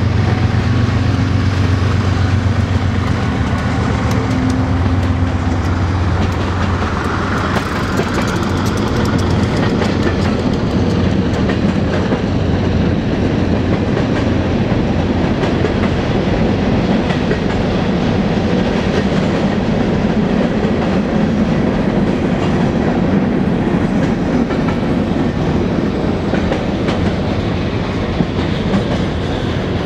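Two diesel locomotives running in the middle of a freight train pass with a loud, steady engine hum that fades after about six seconds. The train's freight cars then roll by with a steady rumble and wheel clatter.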